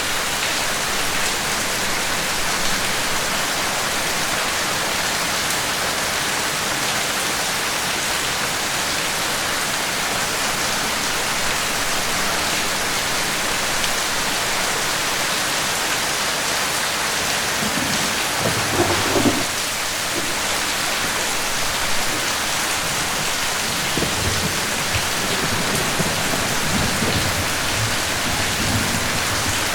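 Steady rain falling, an even hiss. About two-thirds of the way in a low rumble swells briefly, and softer low rumbles come and go near the end.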